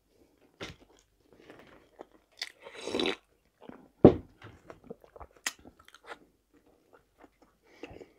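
Close-up chewing of a chicken shawarma, mouth closed, with small wet smacks and clicks. There is a brief crunchy patch about three seconds in and a sharp thump about a second later, the loudest sound in the stretch.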